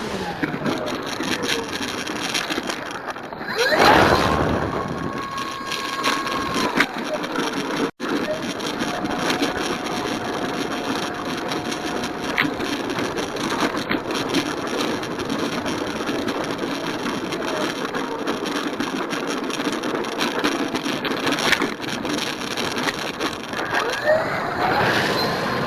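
Electric motor and propeller of an FMS Cessna 182 RC model plane, whining and rising and falling in pitch with the throttle, under heavy wind rush on the onboard microphone. A loud gust of wind about four seconds in.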